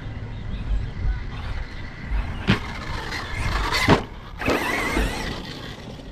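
Brushless electric motor of an Arrma Notorious 6S RC stunt truck whining in bursts, with two sharp knocks about two and a half and four seconds in as the truck lands or tumbles. Low wind rumble on the microphone runs underneath.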